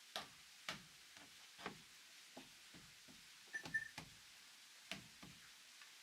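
Faint, irregular knocks and taps on wood, about ten in all, with a quick cluster a little past halfway.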